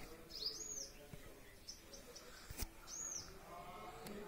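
A bird repeating a short, high, arched chirp, heard twice, with a single sharp click a little past halfway and faint distant voices near the end.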